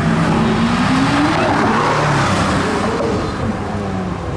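Porsche 718 Boxster S's turbocharged flat-four accelerating hard, its note rising in pitch for about three seconds and dropping back near the end, with tyre noise swelling about two seconds in.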